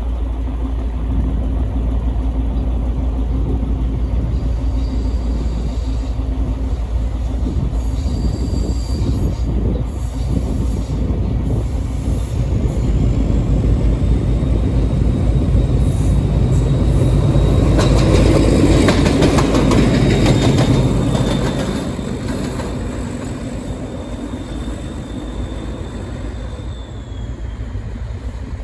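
KTMB diesel locomotive running past at low speed, with a thin steady wheel squeal that comes in about halfway through and fades out near the end. The running noise is loudest a little past halfway, then eases off.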